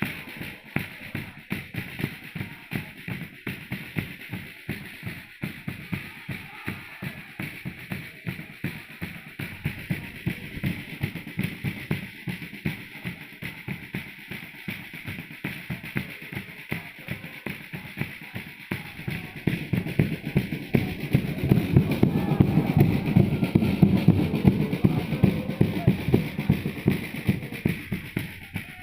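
Football supporters' drums, bass drum and snare, beating a steady rhythm for a chant, with the crowd's voices swelling louder in the second half before easing near the end.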